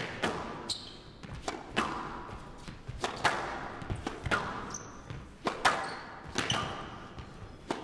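Squash rally: the ball cracks off rackets and the walls in quick pairs about once a second, each hit ringing in the court, with short shoe squeaks on the floor between shots.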